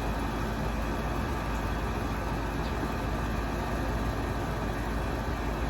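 Steady low rumble with a hiss above it, like a motor vehicle's engine running, unchanging throughout.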